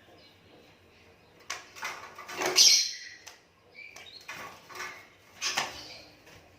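Asian pied starling giving harsh, squeaky calls in two bursts, one about a second and a half in and another about four seconds in.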